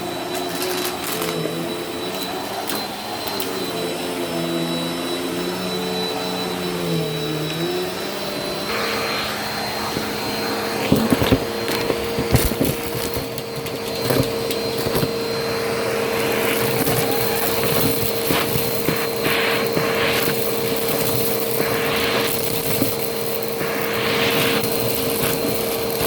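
Vacuum cleaner running, its motor pitch wavering for the first several seconds and then holding steady. From about nine seconds in, sharp crackling and clicking as crunchy debris is sucked up.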